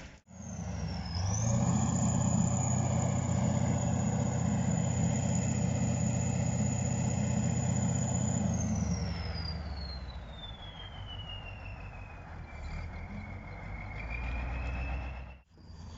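A heavy vehicle's engine running loud and steady with a high thin whine above it. About nine seconds in the engine drops away and the whine slides down in pitch.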